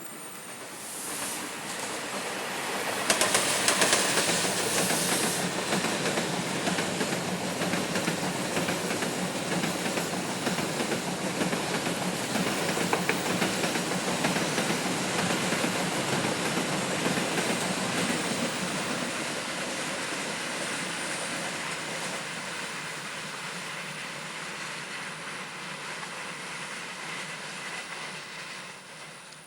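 A train passing close by on the rails: the noise builds over the first few seconds, is loudest at about three to five seconds in as the front goes by, then carries on as a long steady rush of wheels clattering on the track before fading away near the end.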